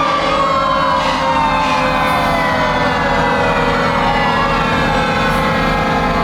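Fire truck sirens, one winding slowly down in pitch across several seconds while another starts to rise again near the end, over the rumble of the trucks' engines.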